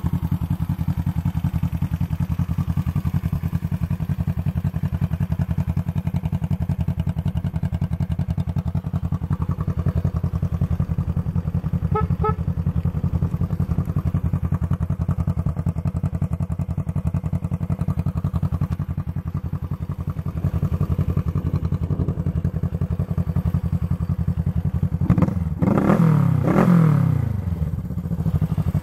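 1971 Honda CB350's air-cooled parallel-twin engine idling steadily. About twelve seconds in there is a short double beep. Near the end the throttle is blipped twice, the revs rising and falling each time.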